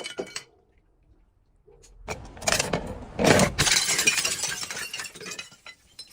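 Glass being crushed, a dense crunching and crackling that starts about two seconds in after a short near-silence, grows loud, then fades near the end.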